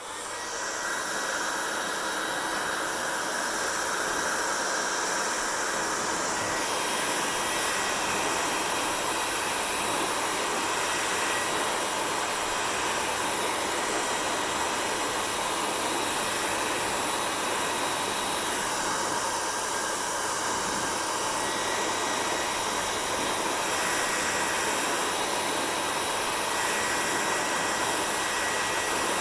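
Hair dryer switching on and blowing steadily: an even rushing noise with a faint high whine.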